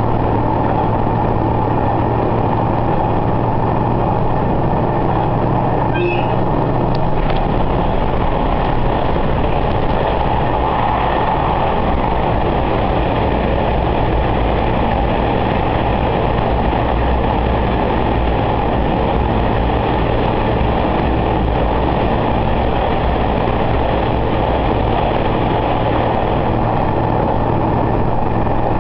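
Diesel railcar running along the line, heard from on board: a steady engine hum under a constant rumble of wheels on rail. There is a brief high squeak about six seconds in.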